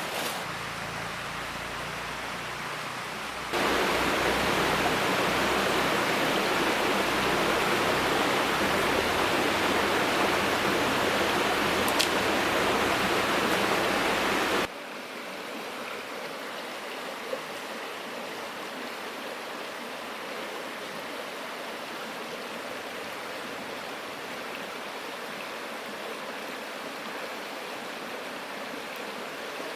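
Flowing river water, a steady rushing hiss. It gets louder and fuller about three and a half seconds in, then drops suddenly to a softer, thinner flow at about fifteen seconds.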